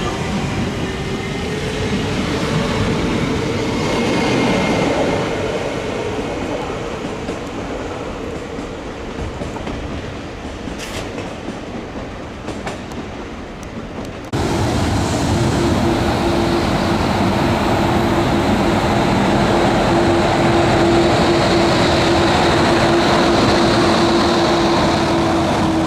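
Trains moving along the platform, a steady whine from the running gear over the rumble of the wheels. The first passage fades, then about 14 seconds in the sound cuts abruptly to another, louder train with a strong steady hum that drops slightly in pitch near the end.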